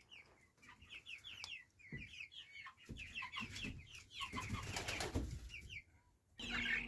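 Dozens of young chicks peeping together in a brooder, a steady chorus of short, high, falling peeps overlapping one another, with a few soft knocks.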